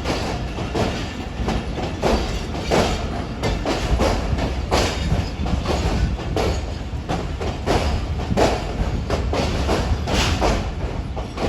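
Railway coaches rolling slowly into the station, their wheels clacking irregularly over rail joints and points above a steady low rumble.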